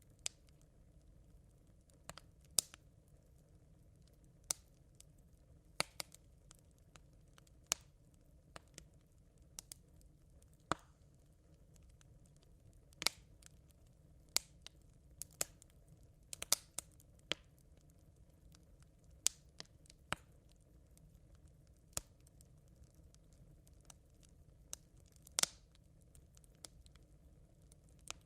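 Smouldering campfire embers crackling: sharp, irregular pops and snaps, about one every second or two, over a faint steady low background noise.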